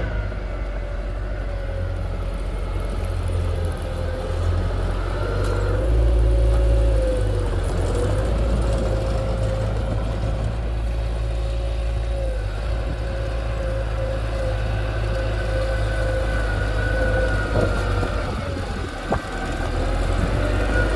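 Diesel engine of heavy earthmoving machinery running steadily under a low rumble, with a steady whine that wavers slightly in pitch; a brief knock near the end.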